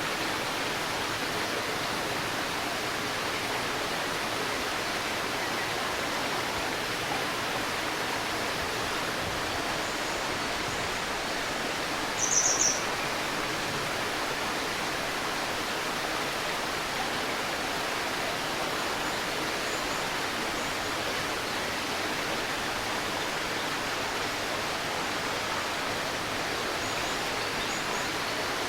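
A river babbling steadily over stones, with a short, high bird call about halfway through and a few faint chirps now and then.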